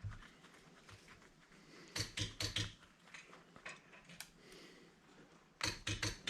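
Sharp metal-on-metal taps while taking apart an old electric angle grinder: two quick bursts of about four strikes each, about two seconds in and again near the end.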